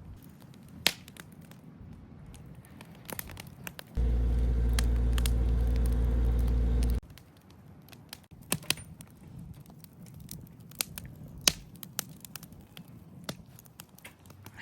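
Wood fire crackling with scattered sharp pops. About four seconds in, a loud steady low hum starts suddenly, runs for about three seconds and cuts off abruptly.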